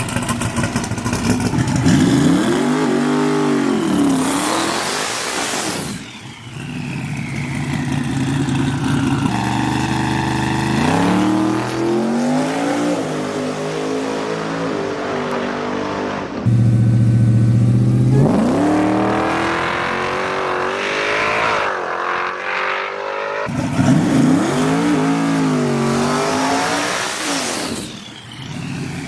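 V8 race-truck engines revving, the pitch climbing and falling back again several times, with a steadier low engine note in between. The sound breaks off suddenly between revs, three times.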